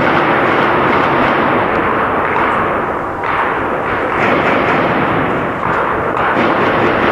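Heavy, sustained gunfire, so dense that the shots run together into one continuous rattle. It swells several times.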